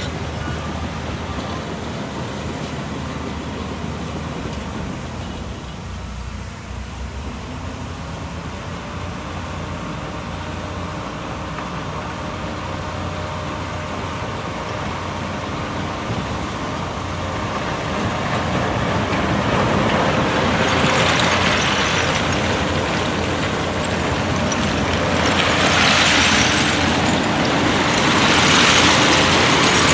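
Heavy diesel earthmoving machinery working, its engine running steadily. A truck's reversing beeps sound briefly at the start. From about halfway through, a louder rough hissing noise swells in several waves.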